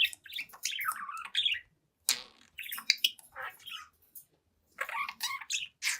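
Young budgerigar chattering and warbling in quick squeaky chirps, in three bursts separated by short pauses.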